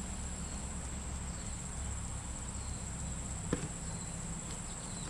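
Steady high-pitched insect trilling, with a low rumble underneath and a single sharp click about three and a half seconds in.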